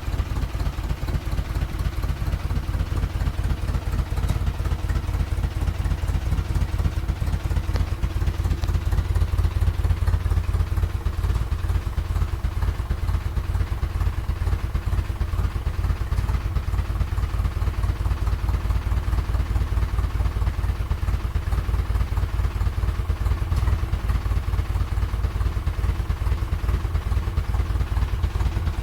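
Freshly rebuilt GAZ-MM four-cylinder side-valve (flathead) petrol engine running steadily on its first start, with an even, rapid firing beat. It gets a little louder about ten seconds in.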